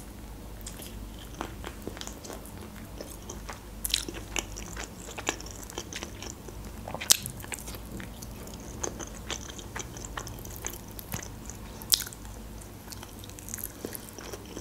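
Eating chicken wings in sweet-and-sour sauce: biting and chewing with scattered mouth clicks and smacks, the sharpest about 4, 7 and 12 seconds in.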